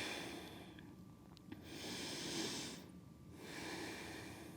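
A person breathing slowly and audibly, a breath about every two seconds with short pauses between, resting after a strenuous yoga pose.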